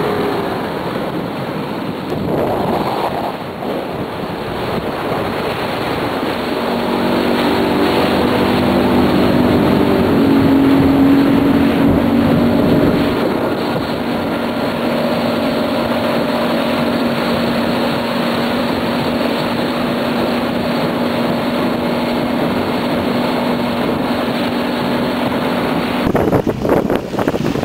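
Yamaha 200 horsepower outboard on a center console fishing boat running at speed, its engine tone climbing and then holding steady, over wind on the microphone and rushing water. The sound changes abruptly near the end.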